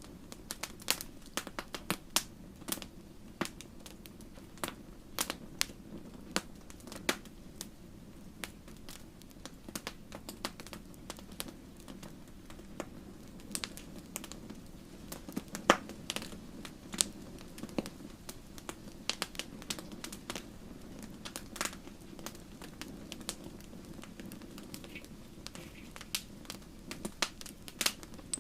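Wood fire burning in a fireplace: irregular sharp crackles and pops over a steady low rush of flame, with one louder pop about halfway through.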